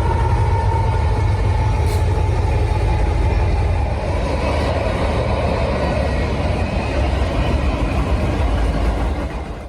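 A heavy vehicle's engine running steadily with a loud low rumble and a faint high whine that sinks slightly in pitch.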